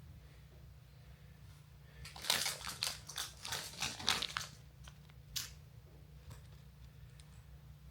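Faint rustling and clicking handling noise, bunched together about two to four seconds in with one more click a little later, over a low steady hum.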